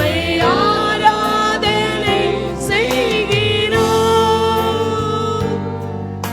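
Tamil Christian worship song: sung melody with long held, wavering notes over a steady instrumental backing.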